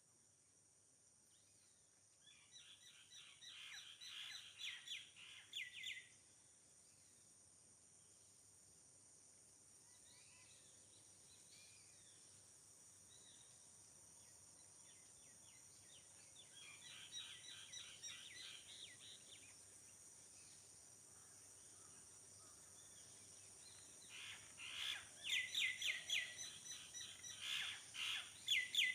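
A songbird singing, three phrases of rapid repeated notes a few seconds long, about two seconds in, past the middle and near the end. A steady high insect drone runs underneath.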